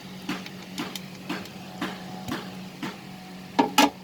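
Kitchen sounds of fried chicken pieces going into a pan of cream sauce: light clicks about twice a second over a steady low hum, then two loud knocks near the end.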